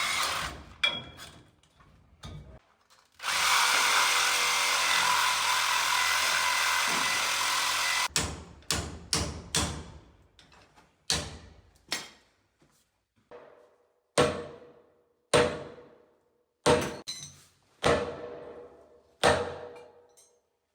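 Tool work: a power tool runs steadily for about five seconds, then about a dozen sharp knocks follow, roughly one a second, each with a short ringing tail.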